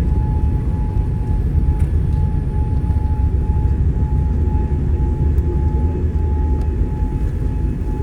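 Steady cabin noise inside a Boeing 787-9 airliner: a constant low rumble of engines and airflow, with a thin steady tone over it.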